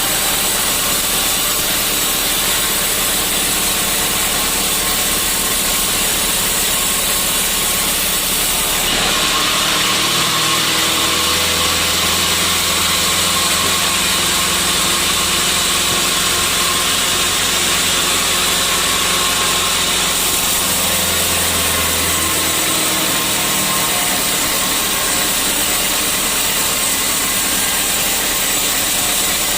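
Sawmill saw running on teak wood, a loud, steady machine noise. For a stretch in the middle it takes on a deeper hum and a brighter hiss, then settles back.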